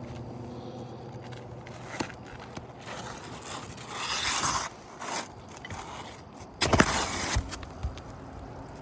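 Scraping and shuffling on an asphalt shingle roof as shingles are worked and people move about, with a click about two seconds in and a louder scraping burst with a couple of knocks near the end.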